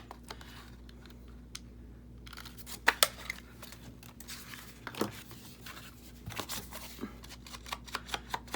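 Paper and card being handled: light rustling with scattered short clicks and taps, the sharpest about three seconds in and another about five seconds in, and a run of small ticks near the end.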